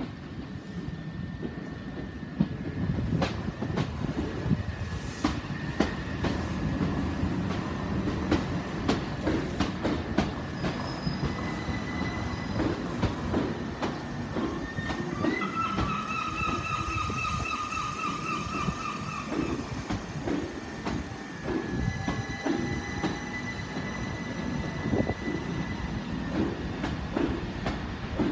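Southern Class 377 Electrostar electric multiple unit arriving slowly, its wheels clicking and knocking over rail joints and points with a thin steady squeal from the wheels. A louder, wavering squeal from about halfway through lasts roughly four seconds.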